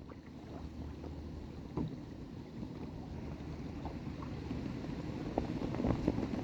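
Faint water sounds around a kayak drifting with the current, with no pedalling, slowly growing louder with a few small ticks.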